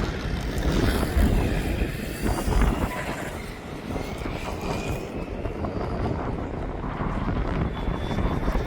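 Electric motor of a Losi Promoto RC dirt bike whining as it runs, its pitch rising and falling with the throttle, over a low rumble of wind on the microphone.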